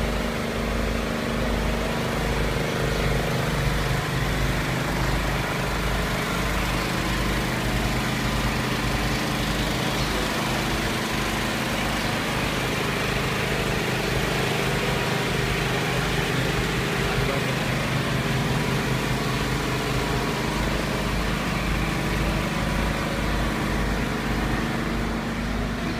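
Engine running steadily at a constant speed, a low hum with a fast pulsing rumble underneath.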